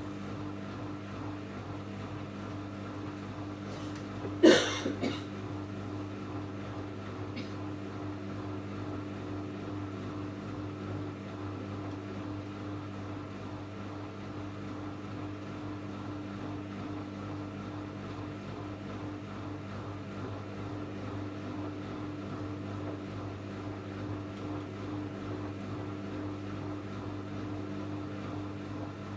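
Samsung Eco Bubble washing machine running with a steady hum of fixed pitch. A single sharp knock about four and a half seconds in.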